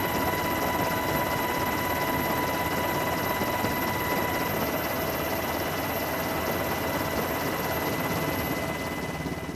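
Steady aircraft turbine engine noise: a wide, even rushing sound with several thin, steady whining tones over it, fading out at the end.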